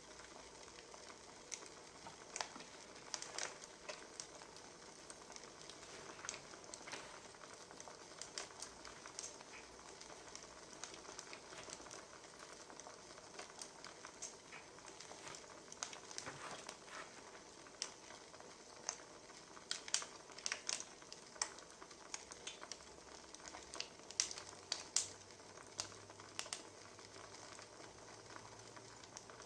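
Wood fire crackling, with irregular sharp pops over a soft steady hiss.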